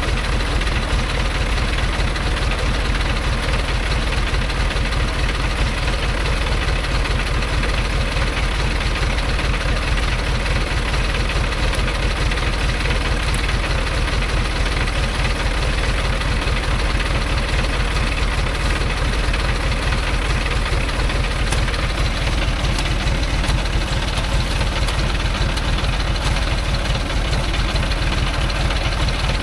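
Small logging truck's engine running steadily at idle, an even low pulsing with no revving.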